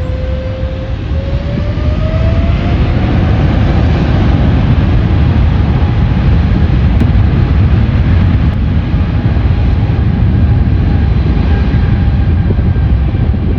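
Jet airliner's engines rumbling loudly, with a whine that rises in pitch over the first few seconds as the sound grows louder, then holds steady.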